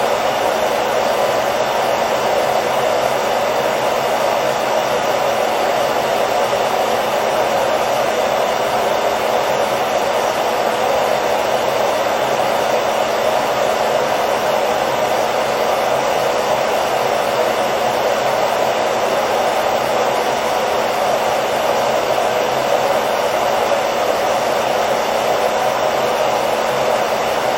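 Hair dryer running continuously at a steady speed: an even rushing blow of air over a faint motor hum, with no change in pitch or level.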